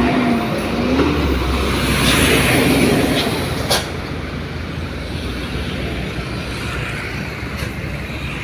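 Loaded truck's diesel engine pulling slowly up a steep grade, its note dipping and rising in the first second or so. A sharp click sounds a little under four seconds in.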